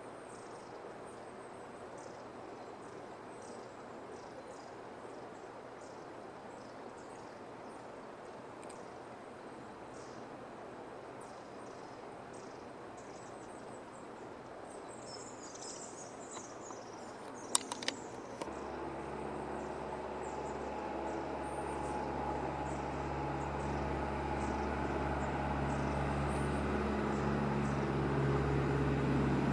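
Long-tailed tits giving short, thin, very high calls over a quiet rural background, then a few sharp clicks just past the middle. After that a route bus's engine comes in and grows steadily louder as the bus approaches.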